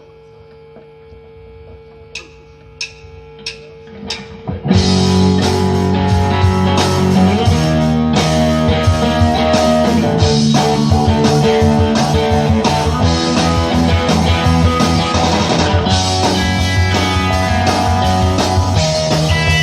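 Four evenly spaced clicks count in, then a live rock band starts playing all at once, with guitars and a drum kit, a little under five seconds in.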